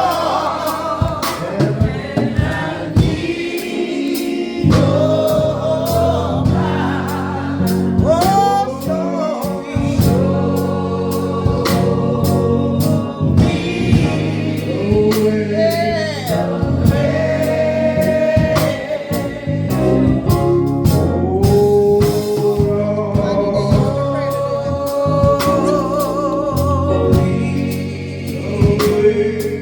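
Gospel choir singing a slow song over instrumental accompaniment with a steady beat.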